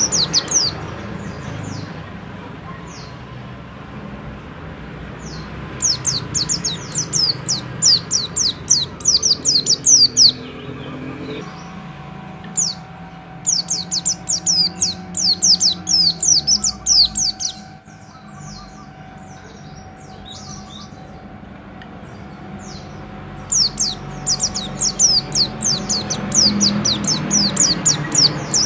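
A pleci bustomi, a white-eye songbird, singing in three long bouts of rapid, high-pitched, sharp notes, with scattered single notes in between, over a low steady background rumble.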